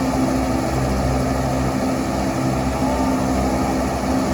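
Giant wind fan running steadily: a constant motor hum with a rush of blown air.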